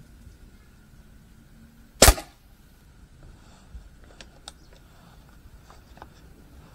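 Snowpeak P35X air rifle firing one shot with a slug: a single sharp crack about two seconds in, followed by a few faint clicks.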